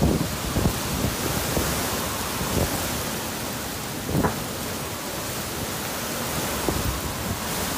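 Hurricane wind and heavy rain: a steady loud rushing, with gusts thumping on the microphone a few times.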